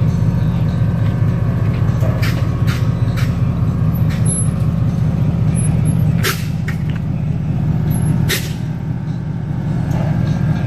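Steady low engine rumble of a slammed early-1950s custom hardtop rolling past at walking pace, with two short, sharp hisses about six and eight seconds in.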